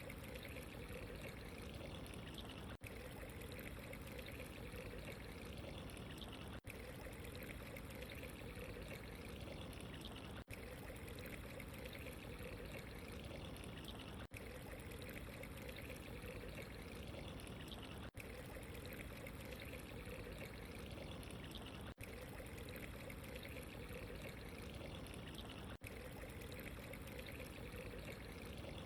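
Steady running water, pouring and trickling without a break, with a very brief dip about every four seconds, as in a looped water recording.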